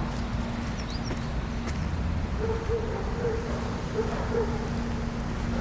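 Outdoor ambience: a steady low city rumble with faint high bird chirps, and a low wavering call from about two seconds in to about four and a half.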